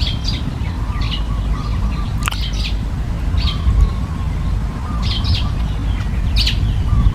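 Birds chirping: short, high chirps repeating every half second to a second, over a steady low rumble.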